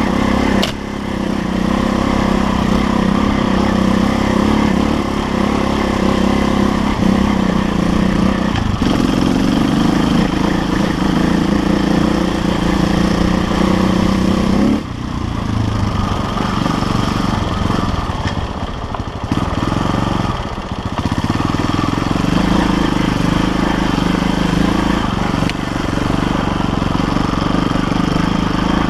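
KTM LC4 350 single-cylinder four-stroke dirt bike engine running under throttle while being ridden, dropping back abruptly about halfway through as the throttle is closed, then pulling again a few seconds later.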